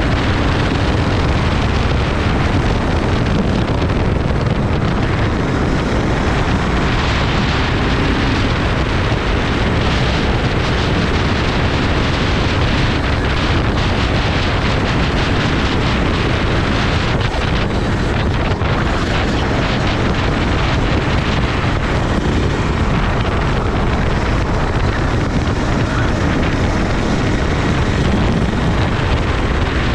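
Racing kart at speed: steady wind rush buffeting the microphone, with the kart's engine running underneath without a break.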